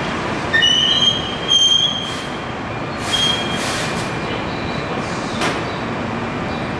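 Keihan Main Line electric train moving slowly through the station, wheels squealing in high-pitched tones in the first two seconds and again about three seconds in, over a steady rumble, with a few short hisses.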